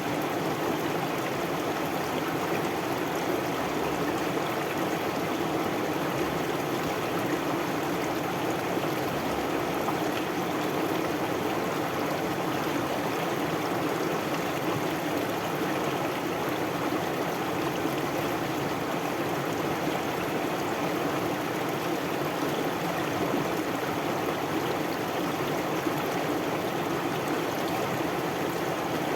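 A river or stream flowing steadily, an even rush of running water with no change in level.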